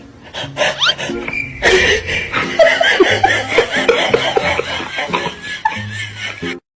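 Laughter in quick repeated bursts over background music, cutting off suddenly near the end.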